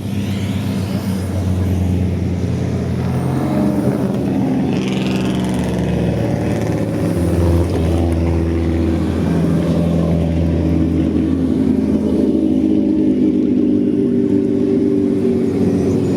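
Racing car engine running loudly, its pitch holding fairly level with a few step changes.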